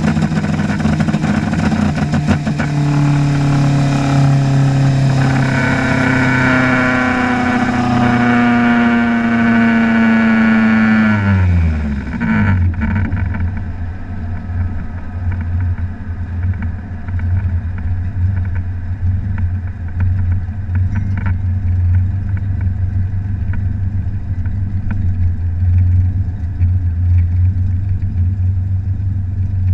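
Drag car's engine heard from inside the cockpit, its pitch sinking slowly as the car slows down the strip. About twelve seconds in the revs drop sharply to a low, rumbling idle that carries on while the car rolls.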